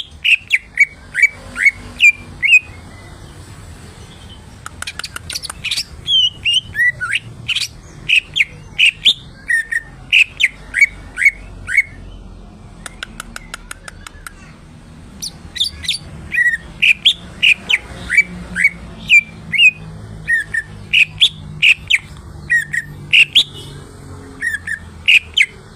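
Cucak ijo (green leafbird) singing vigorously: quick runs of loud, sharp, falling whistled notes, broken by bursts of rapid clicking ticks and two short lulls.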